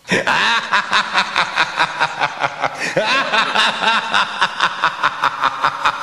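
Laughter in a rapid, steady run of short bursts, about four to five a second, starting suddenly and going on without a break.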